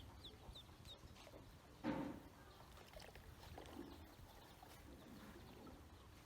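Ducklings peeping in short high chirps, with one louder, lower fowl call about two seconds in and a fainter one near four seconds.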